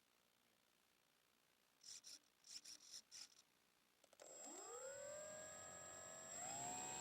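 Slow Stick model plane's electric motor and propeller starting up about four seconds in: a whine that rises quickly in pitch, holds, then steps up again near the end. Before it, a few short, high, buzzy bursts.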